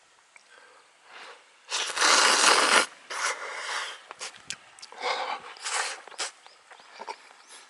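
Handling noises: irregular bursts of rustling and scraping with a few sharp clicks, the longest and loudest burst about two seconds in.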